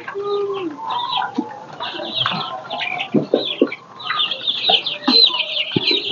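A brooder flock of month-old Lohmann Brown layer chicks peeping: many short, high calls overlapping, growing denser toward the end.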